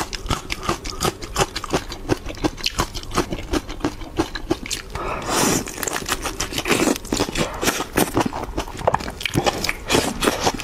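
Close-miked eating of whole shrimp in a chili-garlic sauce: wet chewing with dense, irregular clicks and crackles of shell and flesh, and a longer, smoother wet stretch from about five to seven seconds in as she works at the shrimp at her mouth.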